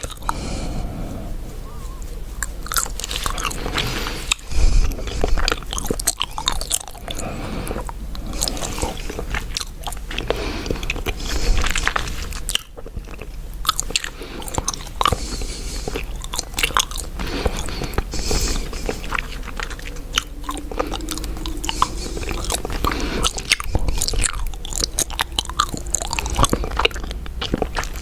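Close-miked gum chewing: wet, irregular smacking and clicking of the mouth working a piece of gum.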